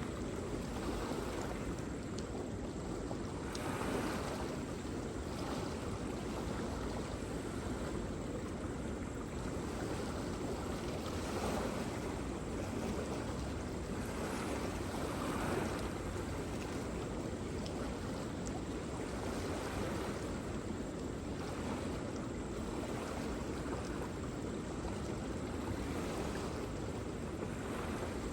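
Waterfall: a steady rush of falling water, swelling softly every few seconds.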